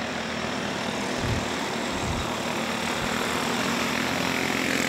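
Cage go-kart engines racing around a dirt track, a steady buzzing drone that swells slightly near the end as karts come closer.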